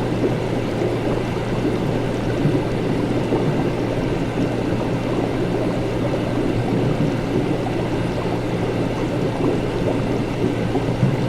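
Laboratory ambience: a continuous low hum with a steady bubbling, gurgling liquid layered over it, even in level throughout.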